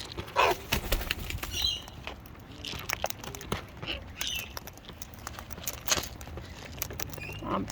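Wild cockatoos flapping their wings and shuffling about at close range, with scattered sharp clicks and rustles and a few short calls.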